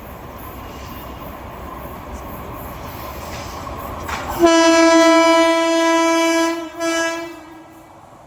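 Horn of a WAP-7 electric locomotive sounding one long blast of about two seconds, then a short second blast, over the steady rumble of the running train.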